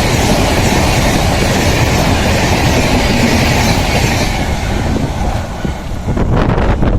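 Express passenger coaches rushing past at speed, wheels clattering over the rail joints with a metallic squeal. The rush thins out about two-thirds of the way through, leaving gusty buffeting near the end.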